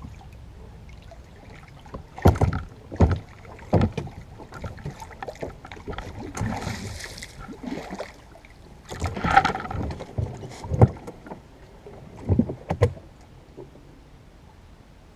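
An oar working a small wooden dinghy, with irregular knocks and clunks of the oar against the boat and a short swish of water or brushing partway through.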